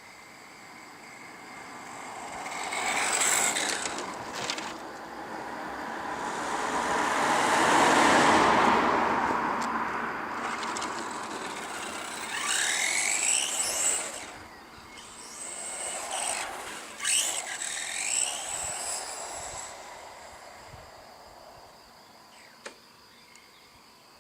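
1:10 scale electric RC cars driving past several times, their motors whining as the pitch rises and falls with each pass, along with tyre and drivetrain noise. The loudest pass comes about 8 s in.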